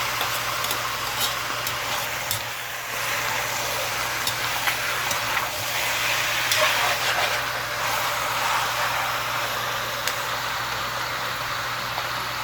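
Chicken frying in a pan: a steady sizzle with occasional light clicks, over a low steady hum.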